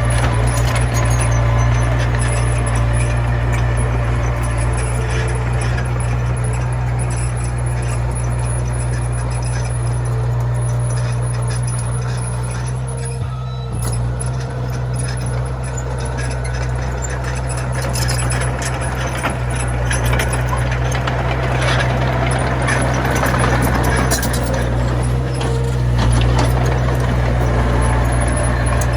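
Komatsu mini bulldozer's diesel engine running steadily, with scattered clanks and knocks from the machine at work.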